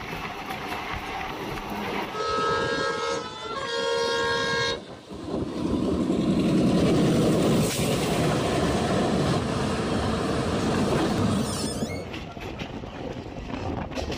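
A locomotive horn sounds two blasts, then a container freight train rushes past close alongside the moving train, a loud steady rumble that eases off near the end into quieter rattling of wheels over the rails.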